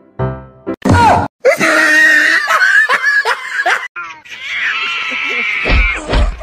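Loud, high-pitched screaming in shrill, wavering cries, starting about a second in after a few notes of music and continuing with brief breaks.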